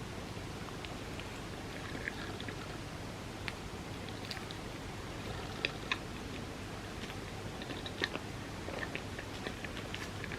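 Close-miked chewing of soft, creamy crepe cake: small wet mouth clicks scattered irregularly, with a few sharper clicks past the middle, over a steady low hum.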